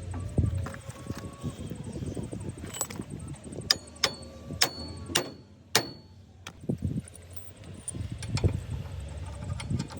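Metal being struck: five sharp clanks about half a second apart in the middle, each ringing briefly, over low rumble and scattered clatter.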